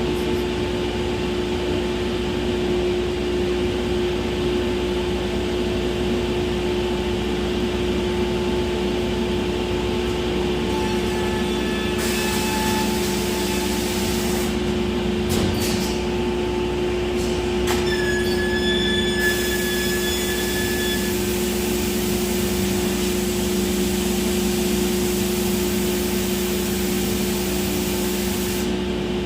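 A machine running steadily with a constant low hum; a hiss comes in partway through and a few faint clicks sound.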